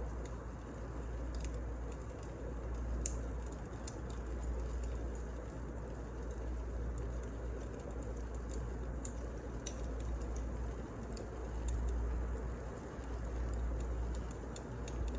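Wood fire burning, with a low steady rumble and scattered sharp crackles and pops at irregular moments.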